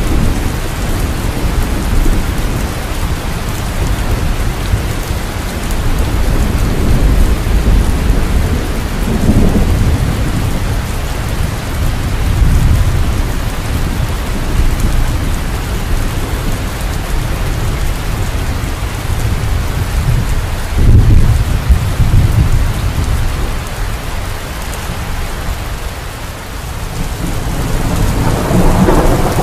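Steady rain falling, with low rolling rumbles of thunder that swell and fade, the strongest about two-thirds of the way through and another building near the end.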